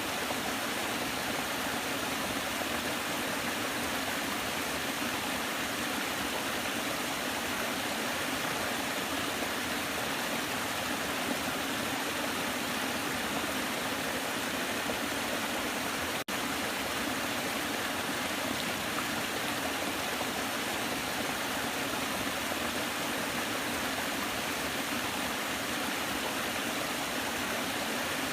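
Waterfall: a steady, dense rush of falling water with no let-up, broken only by a split-second dropout a little past halfway.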